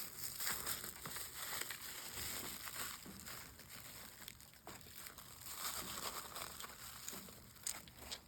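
Wrapping material being unwrapped and crumpled by hand: a continuous run of crinkling and crackling with many small sharp crackles.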